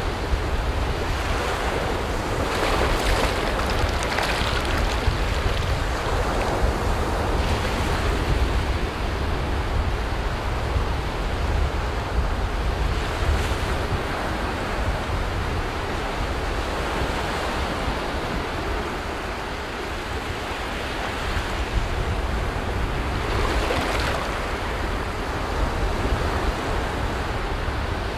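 Sea waves breaking on a beach: a continuous wash of surf that swells louder a few times as waves come in, with a low rumble of wind on the microphone.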